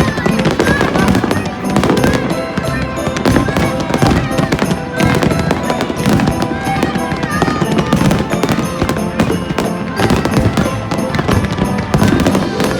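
Fireworks going off in a rapid, continuous run of bangs and crackles, with music and voices underneath.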